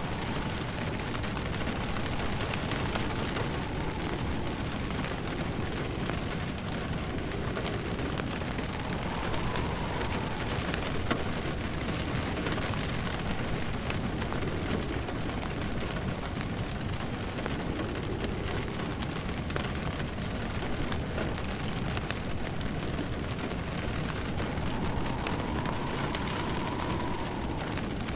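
Steady rain pattering, with a wood fire crackling in many small sharp clicks. Now and then a faint wind rises and falls in pitch.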